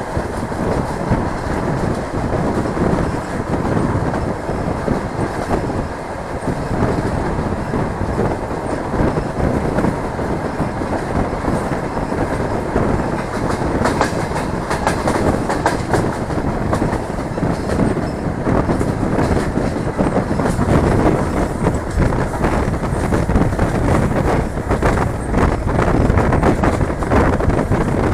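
DR1A diesel multiple unit running along the track, heard from an open carriage window: a steady rumble of wheels on the rails with rushing air, and a run of sharp clicks around halfway through.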